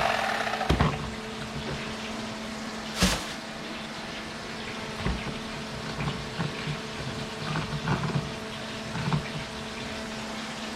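Water running at a kitchen sink under a steady hum, with scattered knocks and taps as fish are handled and filleted on a cutting board. The loudest is a single sharp knock about three seconds in.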